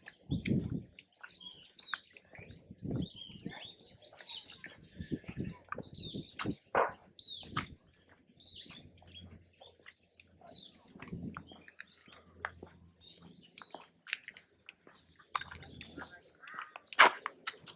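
Small birds chirping and calling over and over in short, high notes, with scattered low thuds and crunchy rustles.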